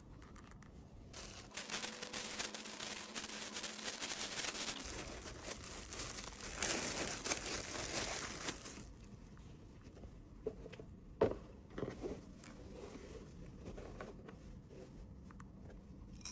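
Packaging being handled while an order is packed: rustling and crinkling, busiest in the first half, then quieter with a few sharp taps and clicks.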